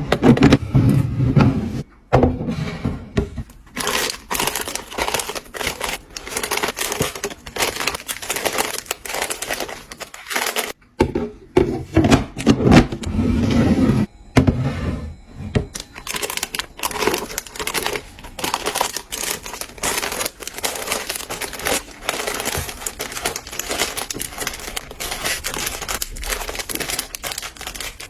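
Plastic packaging crinkling and rustling as groceries are unpacked, mixed with many quick clicks and knocks of items being handled and set down.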